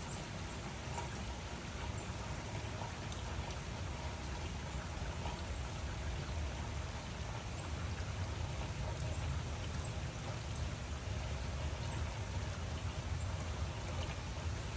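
Steady rain falling, with scattered individual drop ticks over a constant low rumble.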